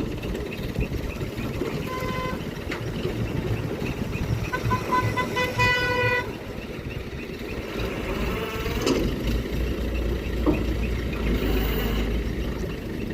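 A vehicle horn gives a short toot about two seconds in and a longer honk around five seconds in, over the steady low running of an engine. The engine rumble grows heavier later on.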